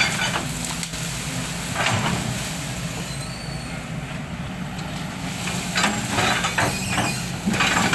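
Engine of a heavy machine running steadily, with several short bursts of noise about two, six and seven and a half seconds in.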